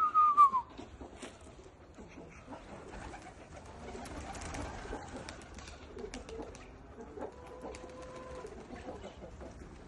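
Domestic pigeons cooing, with scattered small clicks and a brief loud falling squeak right at the start.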